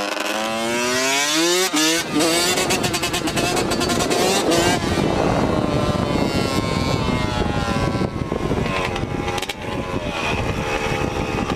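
Off-road engine being ridden hard: the revs climb steeply over the first two seconds, then hold high and wavering. The engine eases off around nine seconds and picks up again near the end.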